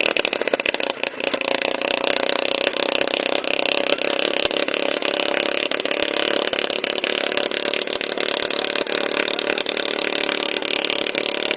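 Helicopter running steadily, a high-pitched whine and buzz that holds one pitch with little deep sound.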